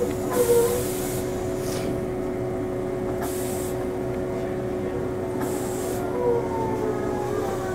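On-board sound of a Tobu 8000-series electric train running between stations: a steady hum from the traction motors, with short hisses about half a second, three and a half seconds and nearly six seconds in.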